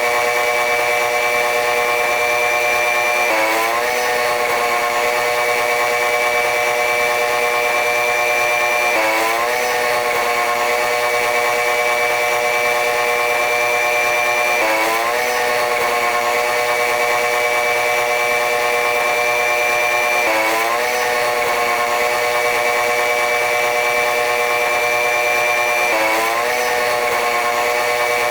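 Train running noise, sped up, heard as a steady mechanical whine with several held tones and a high tone. The pitch briefly dips and glides back up about every six seconds, five times.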